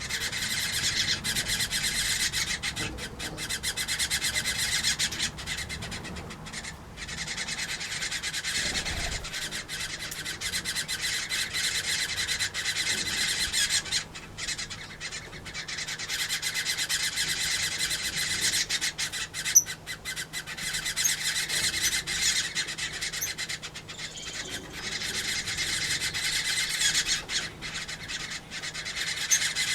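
Many aviary birds, finches, waxbills and parrots, chirping and squawking at once in a continuous chatter.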